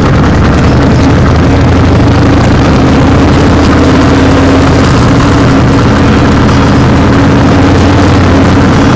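A vehicle's engine running steadily with a low growl, heard loud and close as if from a microphone on board while driving.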